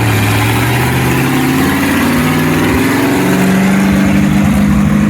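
Brand-new 350 small-block V8 crate engine of a mini S10 monster truck running at a steady low speed, then revved up a little past the two-second mark and held at a higher speed to the end.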